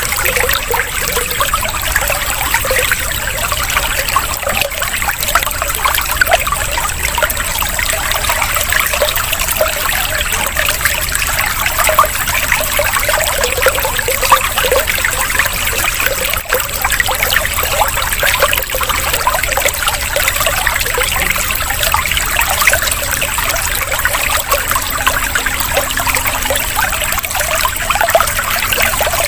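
Water trickling and splashing steadily, a continuous bubbling stream-like sound.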